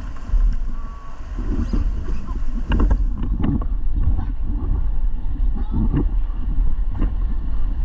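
Wind rumbling on the microphone over river water, with irregular short knocks throughout.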